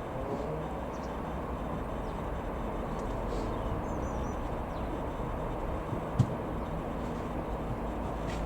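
Ikarus C42 microlight's piston engine running as a steady low drone under outdoor noise, with one sharp click about six seconds in.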